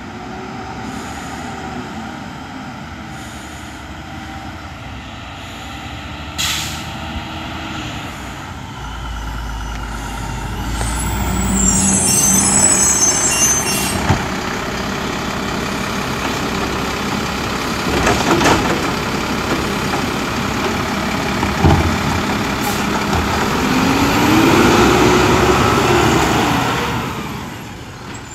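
Mack LR garbage truck with a Labrie Automizer side-loader body at work. Its diesel engine is running and revving up and down, there is a hiss of air brakes, and several sharp metal bangs come a few seconds apart.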